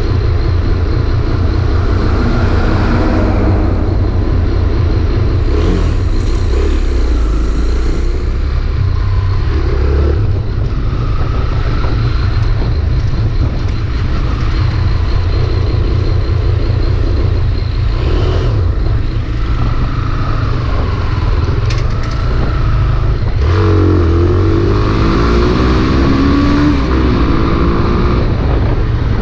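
Honda CB300R single-cylinder motorcycle engine running while parked, with an uneven, jerky running that the owner calls "tranco" and a strange noise he likens to an old VW Beetle. The pitch rises and falls for a few seconds near the end.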